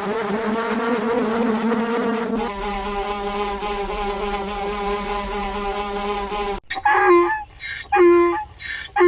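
A flying insect's wings buzzing in a steady hum, dropping slightly in pitch about two and a half seconds in. It cuts off abruptly near the end, replaced by short, loud pitched animal calls about once a second.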